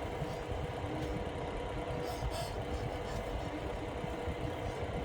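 A steady low mechanical rumble with a faint steady hum over it.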